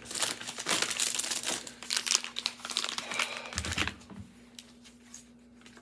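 Crinkling and rustling of packaging being handled, busiest over the first three seconds, with a soft thump about three and a half seconds in, then only faint rustles.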